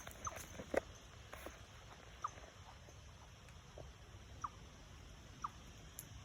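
Chipmunk calling with short, high single chirps, repeated about once a second from about two seconds in. A few faint clicks come in the first second or two.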